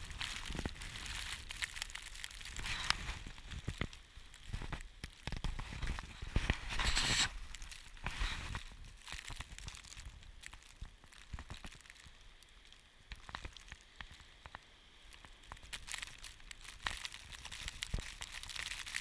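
Strong blizzard wind buffeting the microphone in gusts, with a low rumble and crackling. The gusts are strongest about six to seven seconds in.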